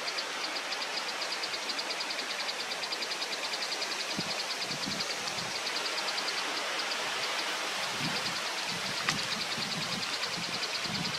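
Steady outdoor hiss with a fast, even, high-pitched pulsing that runs on with a brief break midway, and one sharp click about nine seconds in.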